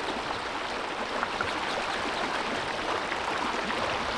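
Steady rush of water flowing in a newly formed seasonal stream after heavy rain.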